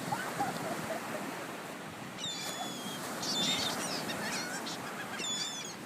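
Seagulls calling, a run of short, high calls starting about two seconds in, over a steady rush of wind and surf.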